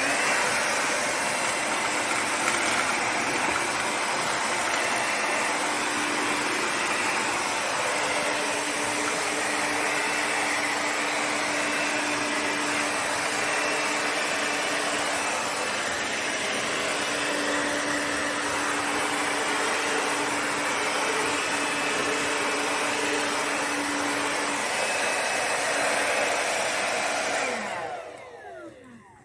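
Cordless handheld vacuum cleaner running steadily: a loud rush of air with a steady hum under it. About 27 seconds in it is switched off and the motor winds down with a falling whine.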